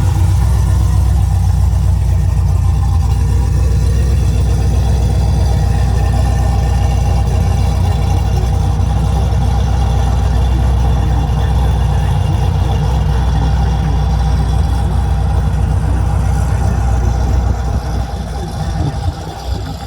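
Car engine idling with a steady, deep rumble close by. It fades somewhat near the end.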